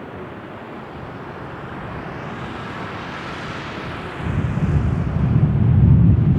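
Jet noise from the four Rolls-Royce Trent 900 engines of an Airbus A380 rising to takeoff thrust. A hiss swells and peaks about three seconds in, then a loud, deep rumble sets in about four seconds in.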